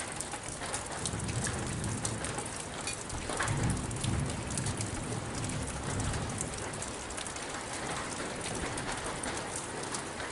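Rain falling steadily during a storm, with many sharp drips striking hard surfaces. A low rumble swells and fades between about one and six seconds in.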